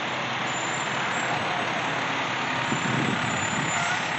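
Fire truck engine running steadily as a heavy engine noise.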